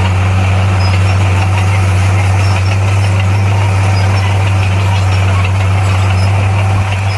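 Diesel engine of a heavy earthmoving machine running steadily with a low, even drone.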